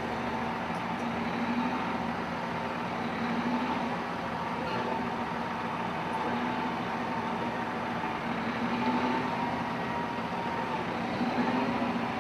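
Heavy machine engine running steadily, its hum wavering slightly in pitch, with no sharp knocks or impacts.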